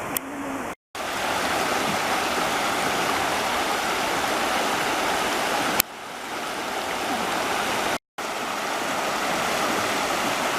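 Steady rushing of running water from a stream, even and unbroken within each shot, with abrupt cuts about a second in, at about six seconds and about eight seconds in.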